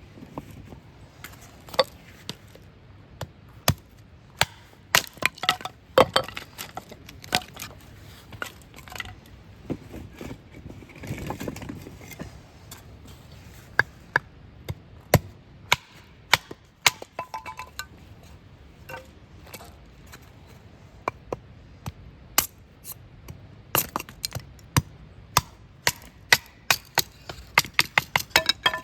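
Irregular sharp cracks and snaps of wood, with a few light clinks among them.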